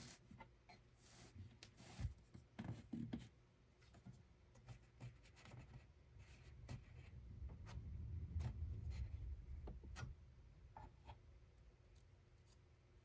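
Faint handwork: scattered light taps, clicks and rubbing, with a low rumble that swells in the middle and fades.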